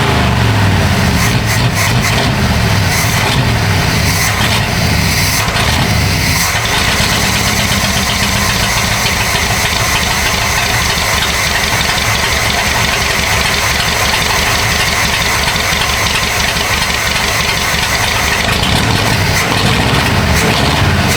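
Chevrolet C10's 350 small-block V8 running, with revs rising and falling near the start and again near the end. The owner says it is getting too much fuel from a 9 psi electric fuel pump.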